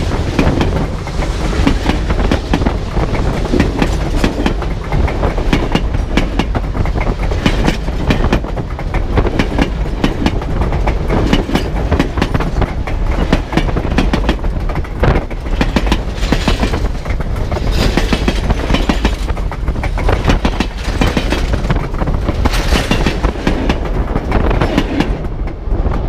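Steam excursion train cars rolling directly over the microphone between the rails, steel wheels rumbling and clacking on the track. The clatter dies away near the end as the last car clears.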